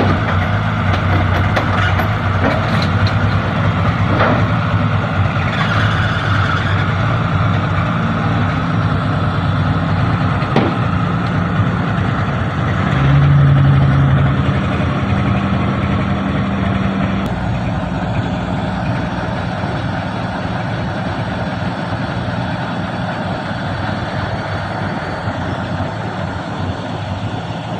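Heavy vehicle engine running steadily, briefly louder and higher-pitched about halfway through, as if revved or put under load.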